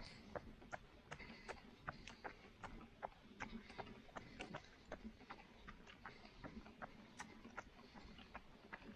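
Running footsteps on a road surface: even, sharp footfalls at about two and a half steps a second.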